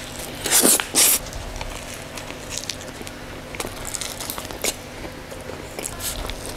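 Close-miked biting and chewing of a thick slice of pizza: two loud bites about half a second and a second in, then moist chewing with many small mouth clicks.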